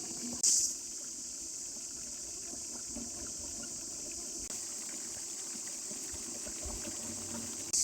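Steady high-pitched chorus of insects buzzing, swelling briefly twice, about half a second in and again near the end.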